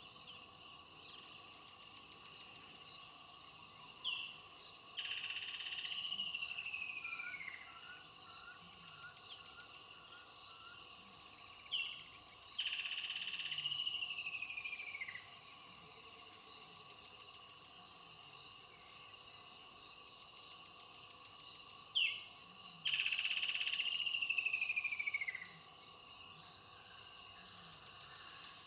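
A bird calls three times, about eight to ten seconds apart: each call is a sharp short note followed by a longer phrase of falling, slurred notes. Behind it a steady chorus of insects shrills throughout.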